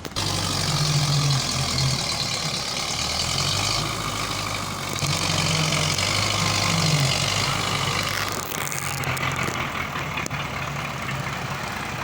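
Belarus tractor's diesel engine running, its note rising and falling a few times.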